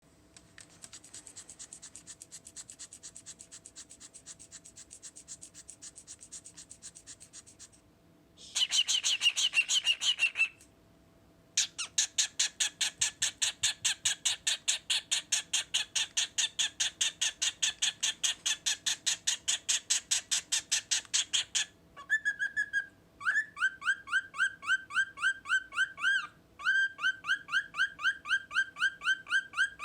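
Male cockatiel making rapid, evenly repeated clicking and chattering noises in several separate bouts. There is a short harsh, loud burst a little after eight seconds, and fast repeated pitched chirps near the end.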